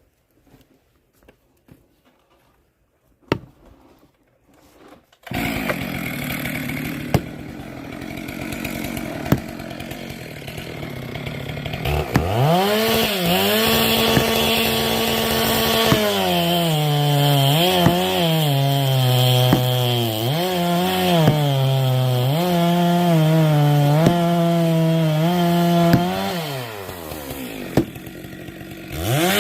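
Chainsaw comes in suddenly about five seconds in and runs, then revs up and cuts wood, its pitch dipping again and again as the chain bites, before dropping back near the end and revving again.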